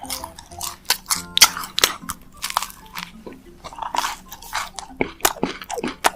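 Close-up crunching and chewing of a macaron: the crisp shell cracks in many sharp, irregular crunches between wetter chews.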